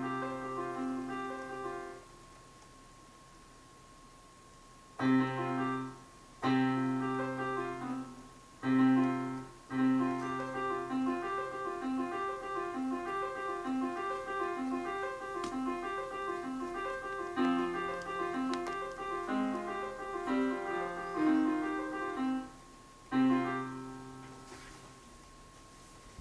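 Slow piano-like keyboard music: held chords in separate phrases with pauses between them, then a stretch of short repeating notes over a moving bass line in the middle. A faint steady high tone lies underneath throughout.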